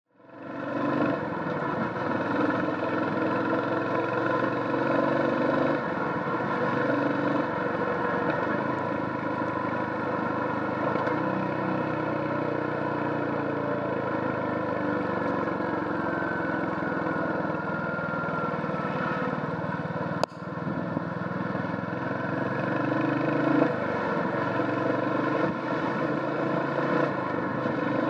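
Royal Enfield Hunter 350's single-cylinder engine running through its stock exhaust on the move, engine speed rising and falling several times as it rides, with wind noise. The sound fades in at the start and drops out for a moment about twenty seconds in.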